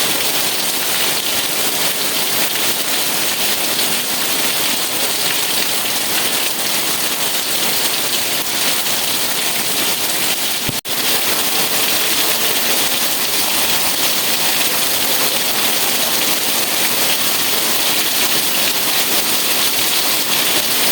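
Steady rain, a dense even hiss with no breaks in its texture; the sound drops out for an instant about halfway through.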